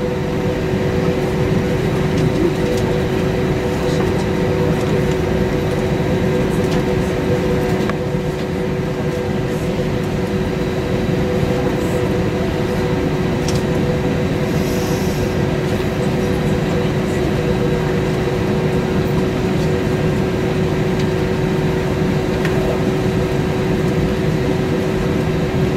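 Steady cabin noise of an Airbus A320-232: an even rush of engine and air noise with two constant hums, unchanging throughout.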